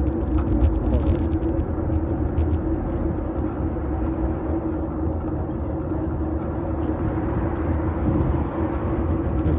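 Steady rumble of a fixed-gear bike rolling along the road, heard through a handlebar-mounted phone, with a constant low hum. Sharp clicks and rattles from bumps come through the first couple of seconds and again near the end.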